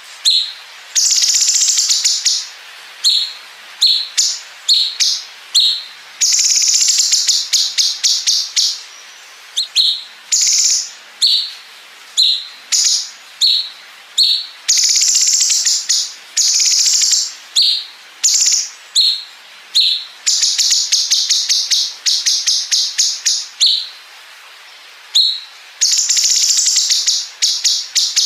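Cucak cungkok singing a continuous loud high-pitched song. Buzzy phrases up to about a second long alternate with fast machine-gun-like rattling trills, the 'bren' fill, and short sharp notes.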